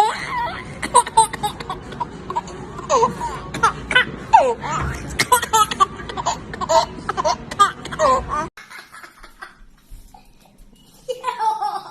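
A baby laughing in repeated bursts of giggles, which cuts off abruptly about eight and a half seconds in; after a quieter stretch a voice starts up near the end.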